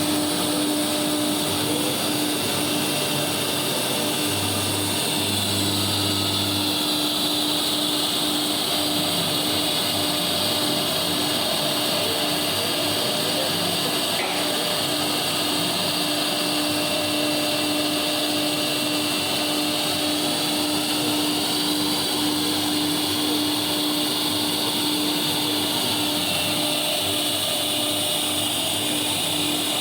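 A three-axis CNC engraving machine and a vacuum cleaner running together: a steady motor hum with a high whine and airy hiss on top.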